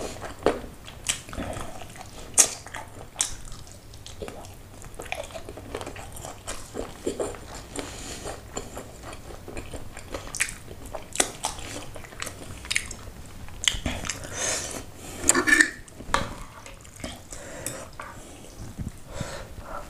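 Close-miked chewing and biting of fried chicken pulled off the bone: irregular mouth clicks and smacks throughout.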